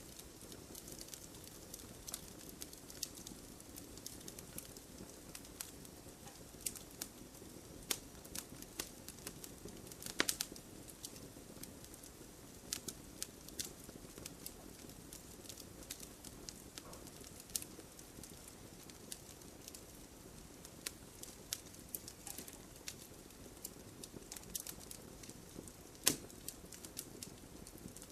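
Wood campfire burning, with a steady low rumble and frequent sharp crackles and pops at uneven intervals, a louder pop about ten seconds in and another near the end.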